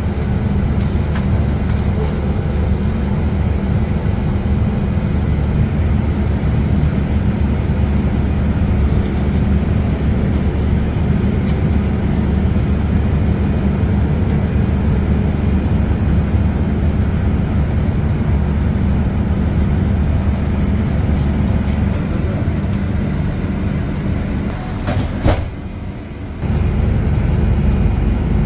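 Passenger train running along the track: a steady, loud low rumble. Near the end it goes briefly quieter, with one sharp knock, then picks up again.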